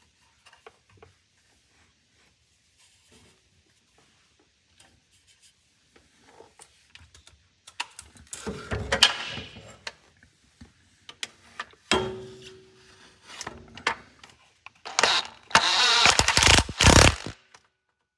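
Cordless impact driver run in short bursts, its motor whining under loud rattling, among small clicks of tool and cable handling.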